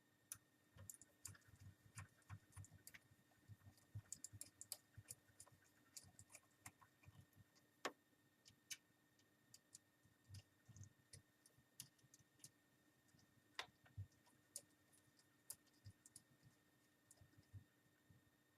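Faint, irregular small clicks and taps of a precision screwdriver and tiny screws while the replacement LCD screen is screwed onto its frame.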